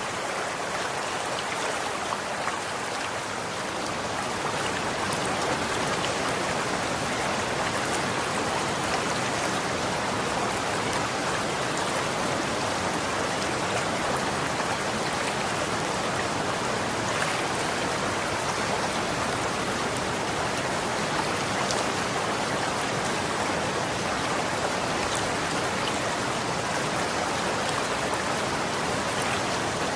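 Running water: a steady, even rush of flowing water with fine splashes and droplets, swelling slightly about four seconds in.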